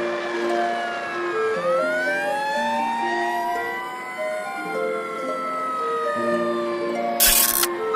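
Cartoon fire-truck siren sound effect wailing, its pitch sweeping up and down in overlapping glides over a simple music melody. A short burst of hiss comes about seven seconds in.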